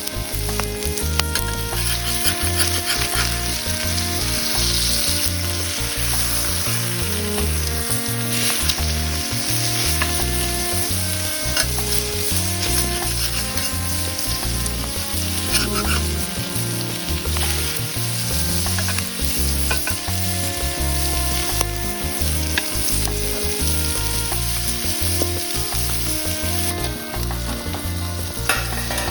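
Food frying and sizzling in a hot pan over a campfire, with a spatula stirring and scraping against the pan in scattered sharp clicks.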